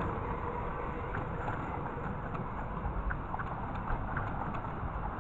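Miniature railway train running along the track: a steady low rumble with scattered light clicks.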